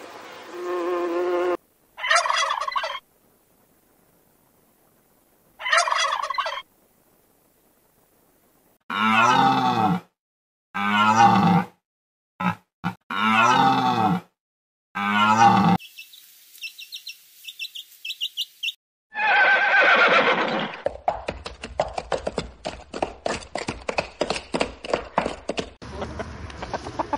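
A series of animal calls, several separate cries with silent gaps between them: a run of five in the middle, then a fast patter of short ticking sounds near the end.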